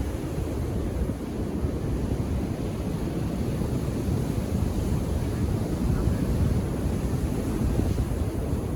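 Calm ocean waves washing onto a beach, mixed with a steady low rumble of wind on the microphone.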